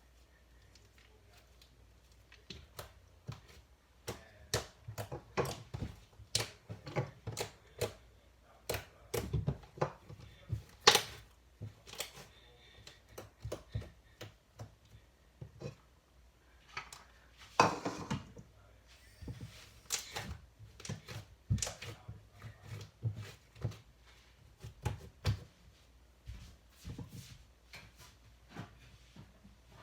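Butter slime being handled and mixed: irregular sharp clicks and taps, at times several a second, with short pauses.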